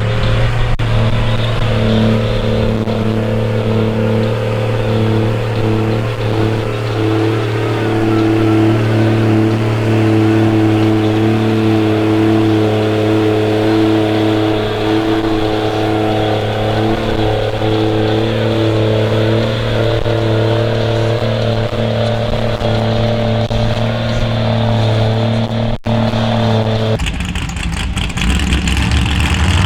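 Off-road vehicle engine held at high, steady revs, one unchanging note that runs on for a long stretch. Near the end the steady note breaks off.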